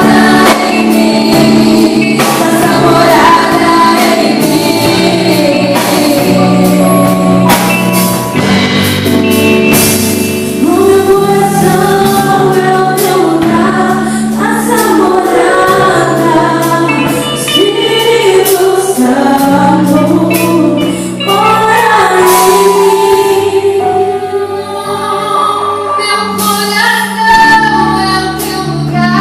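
Two female voices singing a Portuguese-language Christian worship song over instrumental accompaniment with a steady beat.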